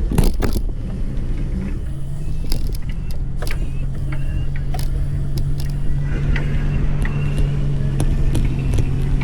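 A vehicle moving along at a steady speed: a steady low hum under heavy wind rumble on the microphone, with scattered small rattles and clicks.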